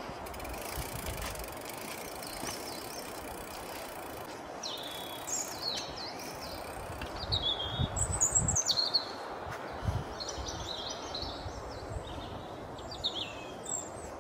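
Small birds chirping and singing in short phrases over a steady outdoor hiss, with a few low rumbles about halfway through.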